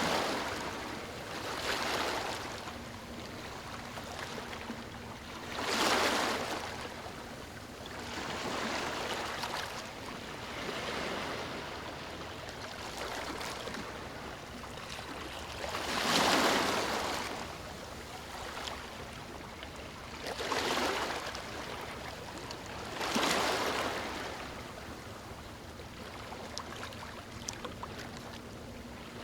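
Ocean waves washing onto a beach: a steady hiss of surf that swells into about half a dozen louder breaking surges, each a second or two long and spaced a few seconds apart.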